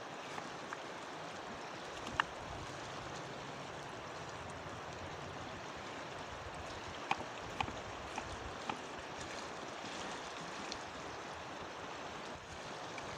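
Steady rushing of a flowing mountain river, with a few short sharp clicks: one about two seconds in and a cluster between seven and nine seconds.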